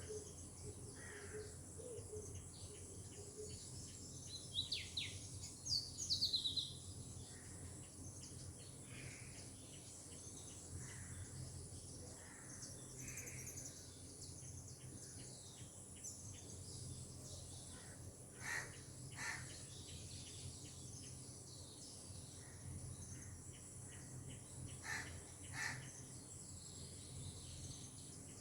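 Birds calling over a steady, high-pitched insect drone and faint background noise. A quick run of high chirps comes about five seconds in, with a few sharper calls later on.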